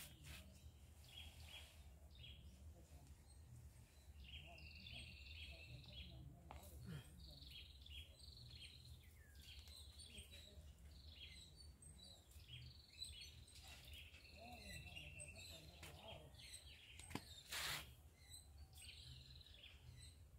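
Faint outdoor background: a small bird sings short chirping phrases over and over, about once a second, above a low steady rumble. A brief, louder noise comes near the end.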